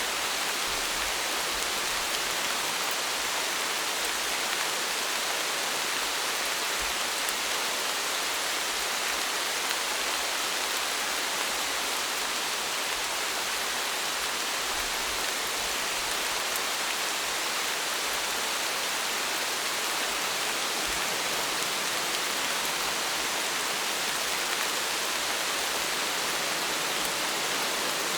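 Steady, even rain: a continuous hiss of falling rain with no thunder.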